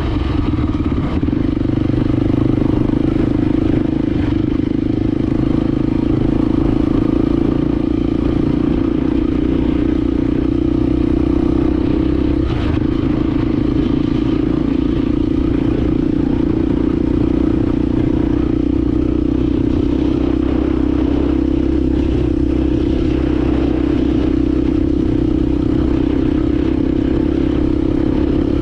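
Honda XR250 Baja single-cylinder four-stroke engine running steadily while the motorcycle is ridden, with some clatter from the bike.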